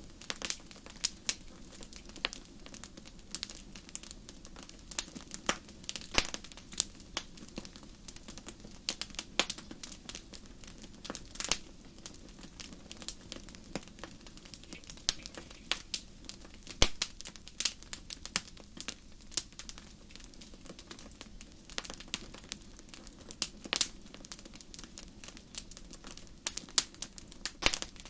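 Fireplace fire crackling: irregular sharp pops and snaps, sometimes several close together, over a steady low background.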